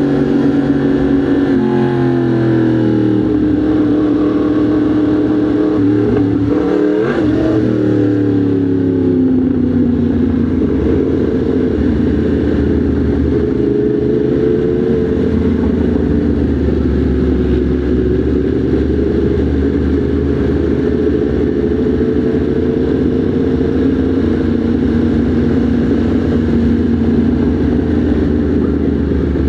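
Motorcycle engine running at low, fairly steady revs in slow traffic. The pitch drops about two seconds in, briefly rises and falls again around seven seconds, then holds steady with small drifts.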